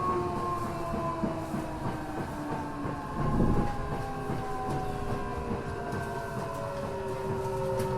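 Tokyo Metro 6000 series train's Mitsubishi IGBT-VVVF inverter and traction motors whining in several tones that slowly fall in pitch as the train slows for a station, over the rumble of wheels on rail. A brief louder clatter comes about three seconds in.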